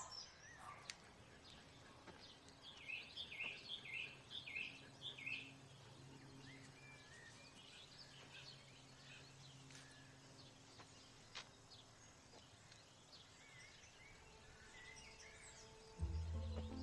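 Faint outdoor ambience with small birds chirping: a quick run of about five chirps a few seconds in, then scattered fainter calls. Music begins near the end.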